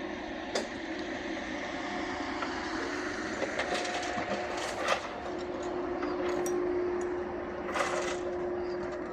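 A steady machine drone with a held hum that grows stronger about halfway through, broken by a few sharp clicks and a brief rattle about eight seconds in.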